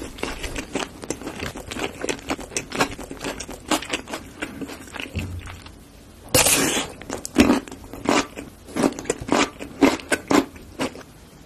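Close-up mouth sounds of eating: pizza being chewed with many small wet clicks, then about six seconds in a loud crunchy bite into a whole pickle, followed by a string of crunchy chews.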